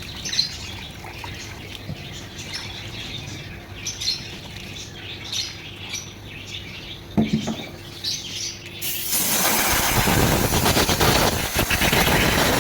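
Birds chirping faintly over a low hum; about nine seconds in, a loud, steady rushing of water starts as the thermostat seat is flushed to wash away old coolant residue.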